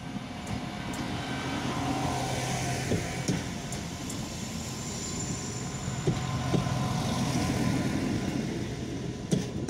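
SA133 diesel railbus passing at close range: a steady diesel engine hum under the noise of the train's running gear, with the wheels knocking sharply over rail joints several times.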